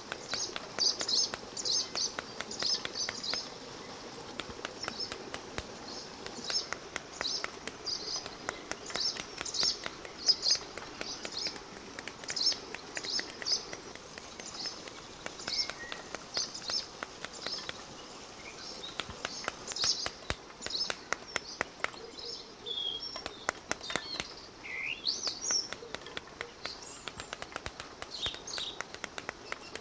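Birds chirping in quick repeated clusters, with a few falling calls in the second half. Over them come many sharp clicks and taps: pomegranate arils dropping into a steel basin as the fruit is broken open by hand.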